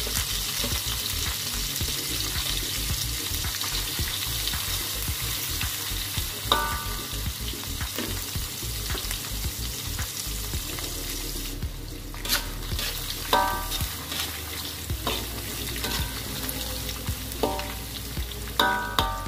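Anchovies (ikan teri) sizzling steadily as they fry in hot oil in a metal wok, being fried to half-done. From about six seconds in, a metal spatula clinks and scrapes against the wok a few times as they are stirred, most often near the end.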